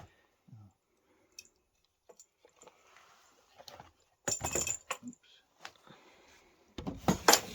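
Small hard objects being handled and rummaged through, with scattered clicks and clinks and two louder rattling clatters, about four and a half seconds in and again near the end.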